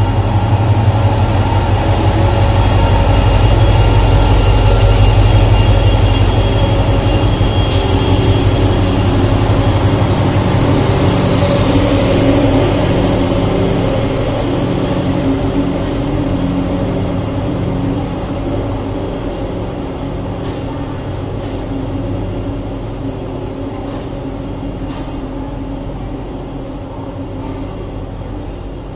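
An Indian Railways diesel locomotive rolls slowly past with its engine rumbling, then its passenger coaches follow, the sound fading as they pass. A thin, steady high-pitched squeal runs throughout, and in the second half the wheels click over rail joints now and then.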